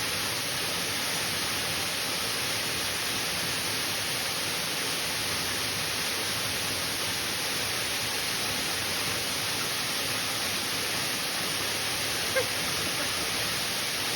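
Waterfall rushing steadily, with one brief knock near the end.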